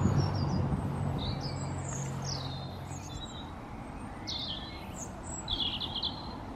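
Birds chirping in a series of short, high calls and trills over outdoor background noise. A vehicle engine's low hum fades away over the first few seconds.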